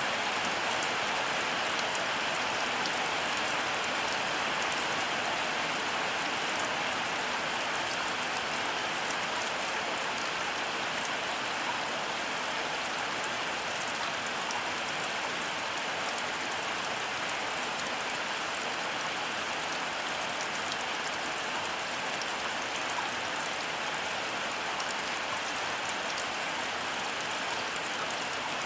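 Heavy rain falling steadily, a dense even hiss of drops with fine pattering ticks and no thunder.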